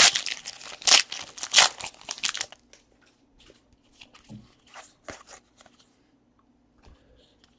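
Trading-card pack wrapper crinkling and tearing as it is opened, dense for the first two and a half seconds, then only a few faint scattered ticks and rustles.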